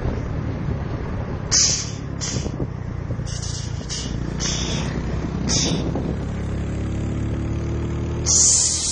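Turbocharged Yamaha Lagenda 115 single-cylinder four-stroke engine running under way, its note climbing in pitch past the middle. Short hissing bursts come every second or so, and a longer, louder hiss comes near the end.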